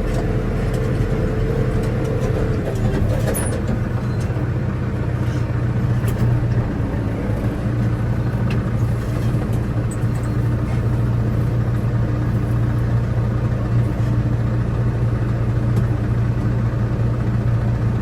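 Farm vehicle engine running steadily with a low drone while driving across a hay field; a higher whine fades out about three seconds in.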